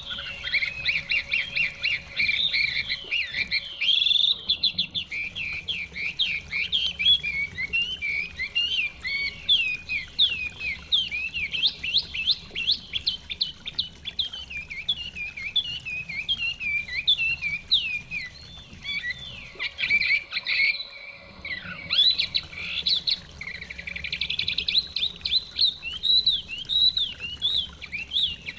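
Chinese hwamei songbird singing a rapid, continuous run of varied whistled phrases, with brief breaks about four seconds in and again around twenty-one seconds.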